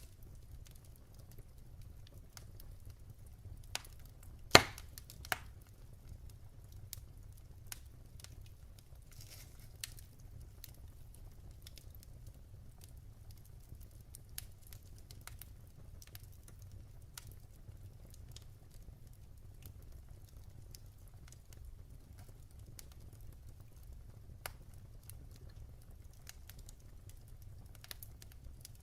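Wood fire in a fireplace crackling, with scattered sharp pops, the loudest about four and a half seconds in, over a low steady rumble.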